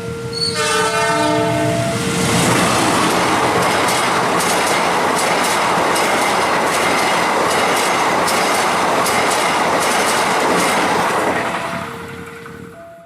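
Locomotive horn sounding, then a passenger train passing at speed: a loud rush with rapid clickety-clack of wheels over the rail joints. The noise fades near the end as another short horn note sounds.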